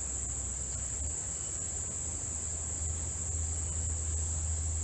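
Insect chorus with a steady high-pitched trill that never breaks, over a low rumble.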